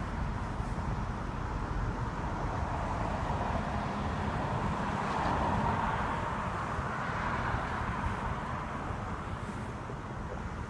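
A 2012 Range Rover Sport making its loud noise at parking-lot speed: a steady low rumble with a hissing band that swells about five seconds in and then eases. It is a fault that shows up at low speed after the car has been driven for some time.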